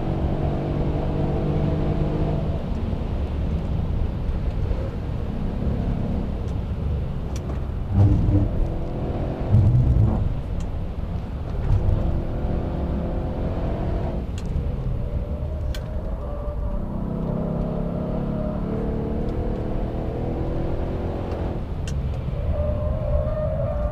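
Mercedes-Benz E63 AMG S-Model's twin-turbo V8 driven hard on track: revs climbing repeatedly, then dropping at gear changes and under braking. A couple of short heavy thumps come through about a third of the way in.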